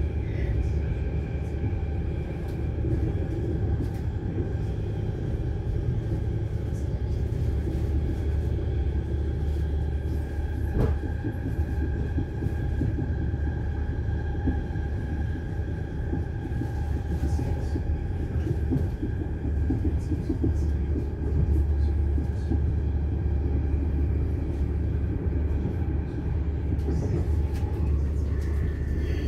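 Inside a Südostbahn electric passenger train coach while it runs: a steady low rumble of the wheels and running gear with a faint steady whine over it, and one sharp knock about eleven seconds in.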